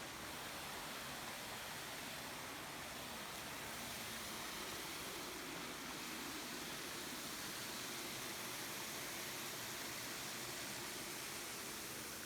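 Waterfall's falling water making a steady rushing hiss, even throughout.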